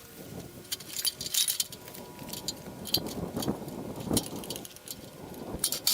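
Scattered light metallic clinks and rattles of metal pieces being handled and shifted, in small clusters with gaps between.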